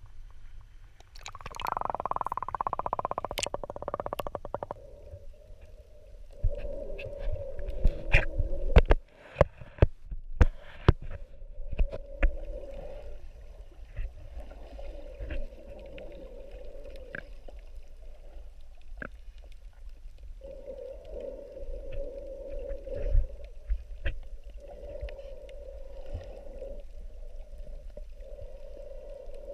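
Muffled underwater sound picked up by a submerged camera: a loud bubbling rush for the first few seconds, then a hum that comes and goes every few seconds, with scattered sharp clicks and knocks.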